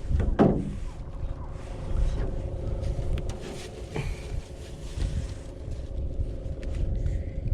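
An uneven low rumble with a faint steady hum running under it, and a brief vocal sound about half a second in.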